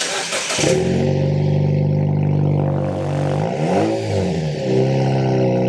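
Cold start of a 2019 Jeep Wrangler JL's 2.0-litre turbo four-cylinder through a freshly fitted aFe stainless cat-back exhaust. The starter cranks briefly, the engine catches within about half a second and holds a steady fast idle. A little past halfway there is one quick blip of the throttle, rising and falling.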